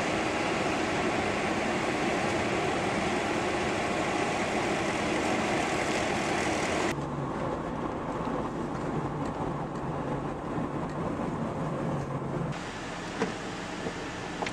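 Steady engine and machinery noise from snow-clearing equipment or traffic, cut into separate shots. A loud, rough rushing runs for about seven seconds, then cuts suddenly to a quieter engine hum with a steady low tone that stops about five seconds later.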